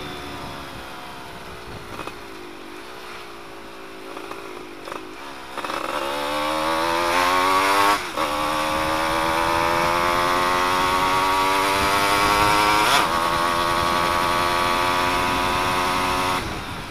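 Yamaha F1ZR two-stroke single-cylinder engine, with its exhaust baffle removed, accelerating hard: after a few quieter seconds the pitch climbs steeply, dips briefly at a gear change about eight seconds in and again about thirteen seconds in, then holds high and loud until it drops off near the end.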